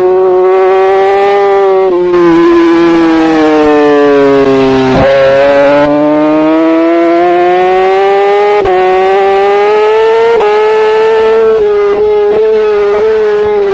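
Racing superbike engine at high revs, heard from a camera mounted on the bike. The pitch sags slowly, jumps up about five seconds in, then climbs with short drops at gear changes near nine and ten seconds, and cuts out briefly several times near the end.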